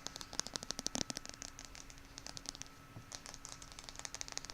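Tines of a cheap plastic hair pick clicking in quick runs of light ticks, with a short lull about two seconds in.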